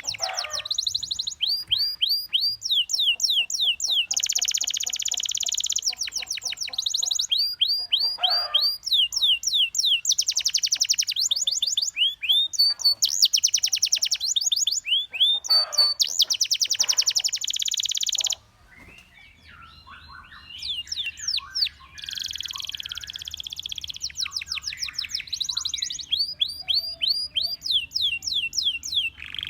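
Domestic canary singing: fast trills of quickly repeated sweeping notes, one rolled phrase after another, with a brief quieter, broken-up stretch about two-thirds of the way through.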